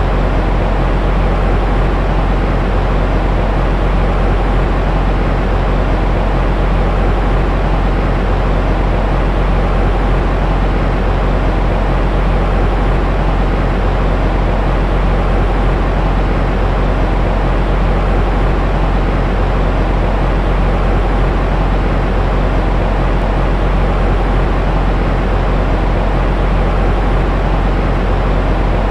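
Continuous baby-sleep white noise: an even, unchanging rush, heaviest in the deep low end and thinning out in the highs, with no breaks or changes.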